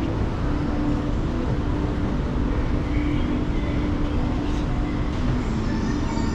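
Steady low rumble with a faint humming tone.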